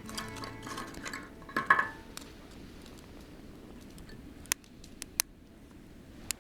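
Clinks and clatter of cooking gear for about two seconds, then a few sharp, isolated snaps over a low hiss, typical of a freshly lit wood fire starting to crackle.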